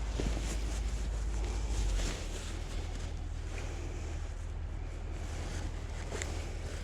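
Wind buffeting the microphone: a steady low rumble that eases slightly about two seconds in, with a few faint knocks.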